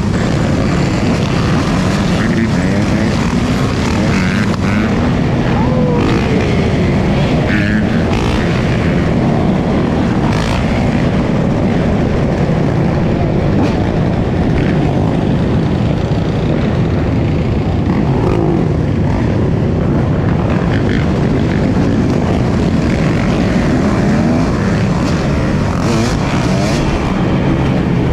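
Dirt bike engine noise, revving up and down with its pitch repeatedly rising and falling.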